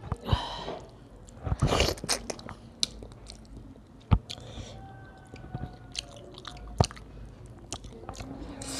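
A person chewing a mouthful of rice and curry, with irregular wet mouth clicks and smacks.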